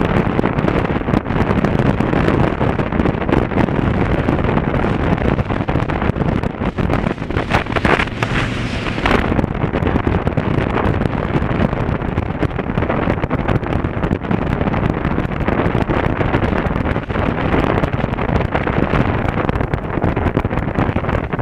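Steady wind rush buffeting an action camera's microphone on a moving motorcycle, with engine and road noise beneath it. There is a brief louder, hissier rush about eight seconds in.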